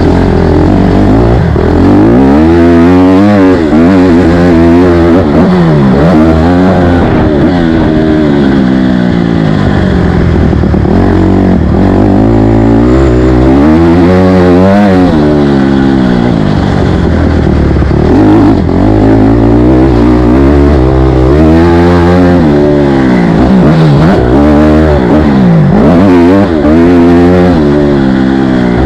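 A motocross dirt bike engine, loud, revving hard and backing off over and over, its pitch climbing and dropping every few seconds with throttle and gear changes as it rides the track.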